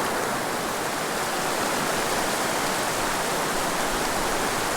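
Mountain river flowing, a steady unbroken rush of water.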